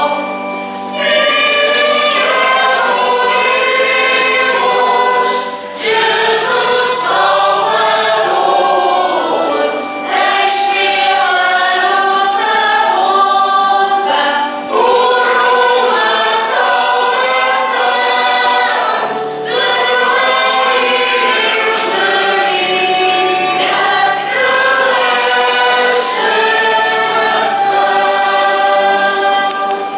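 Choir singing a hymn in phrases, with brief breaths between them about every four to five seconds.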